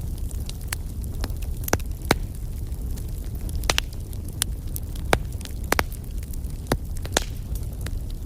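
Wood fire burning with a steady low rumble and irregular sharp crackles and pops, about a dozen louder snaps scattered through.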